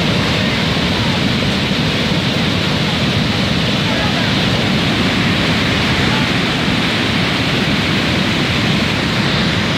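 Rushing floodwater: a loud, steady rush of water noise that does not let up.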